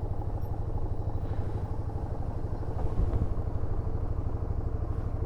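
Yamaha SRV250's air-cooled V-twin engine running steadily at low revs, with a brief low thump about three seconds in.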